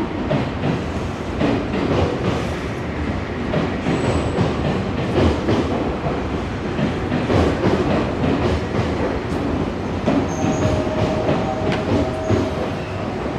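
Nankai electric train running along the platform, its wheels clattering over the rail joints with a continuous dense rumble. A thin steady tone sets in about ten seconds in.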